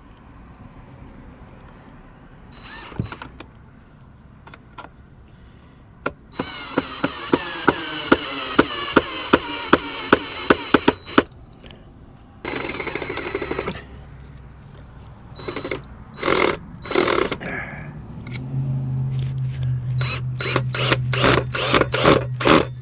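A handheld power tool running in several goes: a run of about five seconds with regular sharp clicks about three a second, a short burst about halfway, then another run of several seconds near the end with a steady low hum and rapid clicks.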